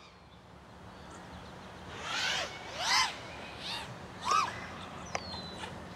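A bird calling four times, about a second apart, each call rising then falling in pitch.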